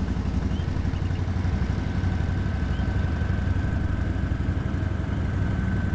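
ATV engine running with a steady, rough low rumble and a fast pulse, along with a faint steady whine.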